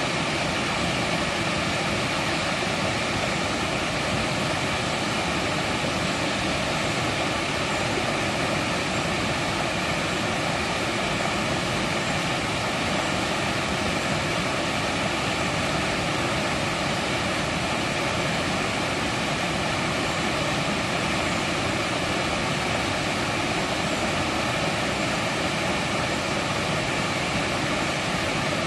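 Mountain stream rushing steadily over rocks, an even, unbroken wash of flowing water.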